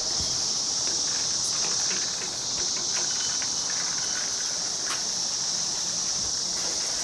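Steady high-pitched buzz of an insect chorus, unchanging throughout, with a few faint clicks and rustles.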